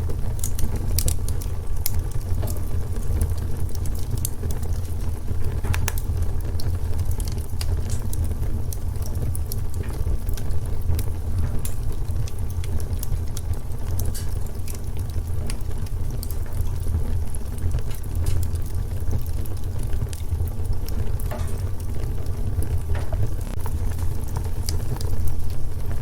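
Wood fire burning in a fireplace: a steady low rumble from the flames with irregular sharp crackles and pops from the burning logs, and a slightly louder flurry of crackling near the end.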